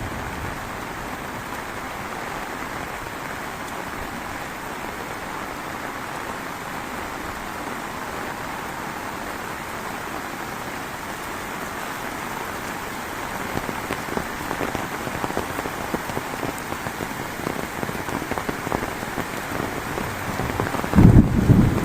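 Heavy rain falling steadily, with louder, more distinct drops pattering from about halfway through. A low rumble comes in near the end.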